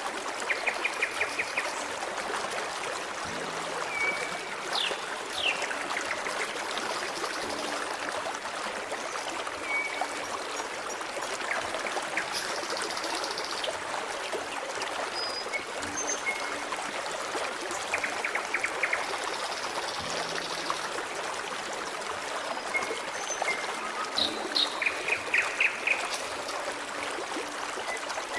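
A forest stream trickling and babbling steadily, with birds singing over it in short phrases: quick trilled notes several times, among them a few in a row near the end, and brief high whistles in between.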